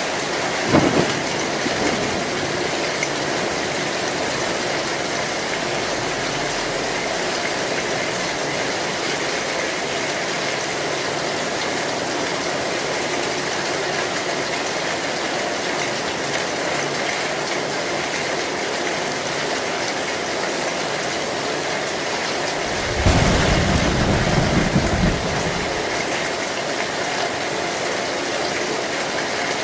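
Steady heavy rain on a tin roof. A brief low rumble comes about a second in, and a louder roll of thunder lasting a couple of seconds comes near the end.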